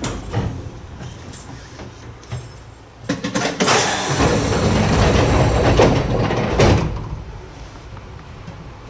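Sangi Railway Hokusei Line narrow-gauge train running: a low rumble with knocks, rising to a loud stretch of rattling and clatter from about three to seven seconds in.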